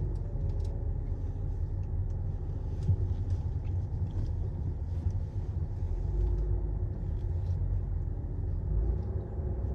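A steady low rumble with no clear pitch, its energy deep in the bass, and a few faint ticks over it.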